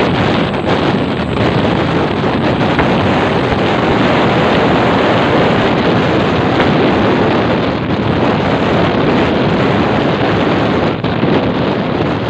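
Steady, loud wind rush on the microphone mixed with vehicle road noise, without any clear horn or engine tone standing out.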